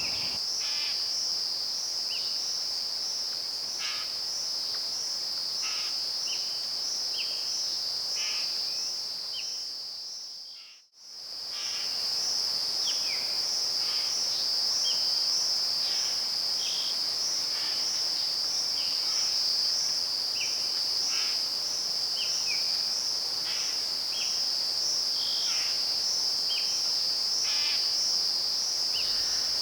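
Rainforest insect chorus: a steady, high, finely pulsing trill, with short chirping calls every second or so. The sound fades out and back in about eleven seconds in.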